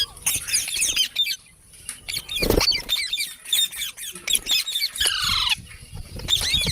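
Pet ringneck parrots chirping and squawking in quick, high, overlapping calls, with a falling squawk about five seconds in. A short thump comes about two and a half seconds in.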